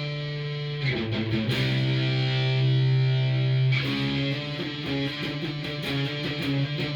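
Cort S series electric guitar played through a Fender amplifier. A held chord gives way to a new chord struck about a second in, which rings for a few seconds; from about four seconds in come quicker picked notes.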